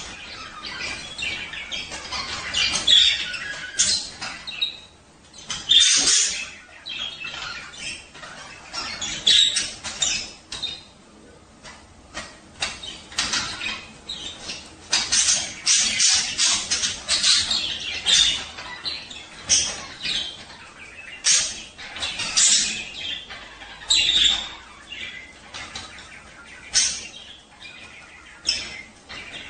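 Budgerigars chirping and chattering in short, irregular bursts of high calls: the chatter of male budgies in breeding condition.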